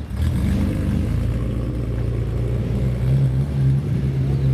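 Car engine running steadily at low revs, its pitch rising a little about three seconds in.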